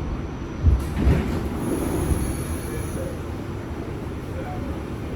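New York City subway train running, heard from inside the car: a steady low rumble of wheels on rail, with a couple of thumps about a second in and a faint high wheel squeal for about a second.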